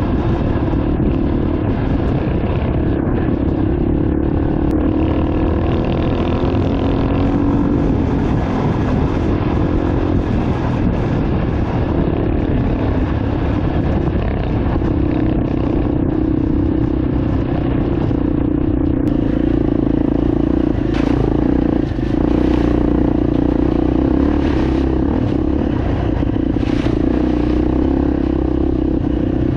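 Enduro motorcycle engine running at a steady speed while riding, with rattling and a few knocks from about two-thirds of the way through.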